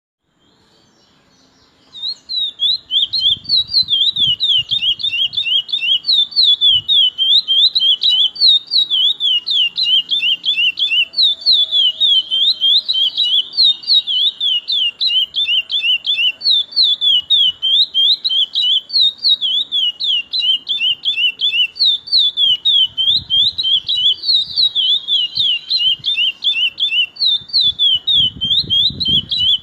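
Chestnut-bellied seed finch (curió) singing a long unbroken song of fast, repeated, sweeping whistled notes, starting about two seconds in.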